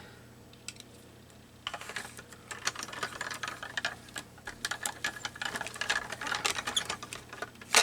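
Paper being cut and handled on a craft desk: a dense, irregular run of small clicks and scratchy rustles that starts about two seconds in.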